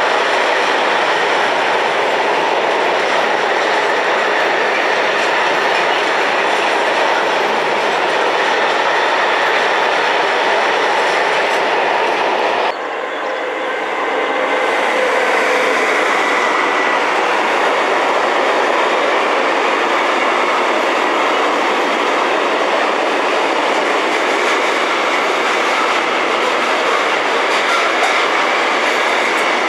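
Freight train wagons rolling past at speed, a loud steady rumble with the clatter of wheels over the rails. The sound breaks off abruptly about 13 seconds in, then builds again as another freight train of container wagons rolls past.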